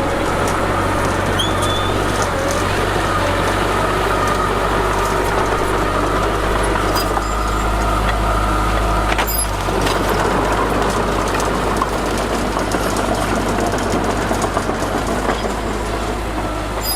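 Crawler bulldozer's diesel engine running steadily as it works dirt, a low drone with mechanical clatter over it and one sharp knock about nine seconds in.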